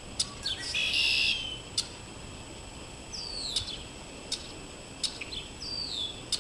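Red-winged blackbirds calling: a buzzy trilled song about a second in, then two slurred whistles that fall in pitch. Short sharp clicks come between them.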